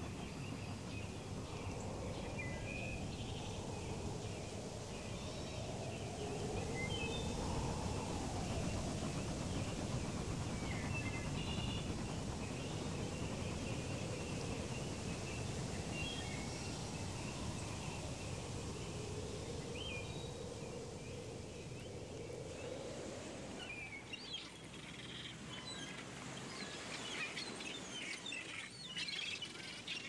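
Ambient nature soundscape: a steady background with scattered bird chirps and a faint wavering tone that slowly rises and falls. About 24 seconds in the background thins out and the bird calls become busier and higher.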